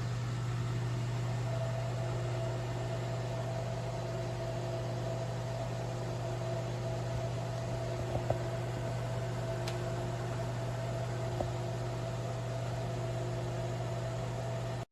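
Countertop cooking appliance running: its fan gives a steady whir over a low hum, with a few faint ticks near the middle.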